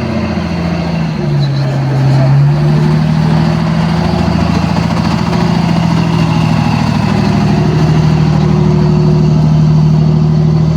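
A car engine running steadily and loud. Its pitch shifts briefly a second or two in, then holds steady.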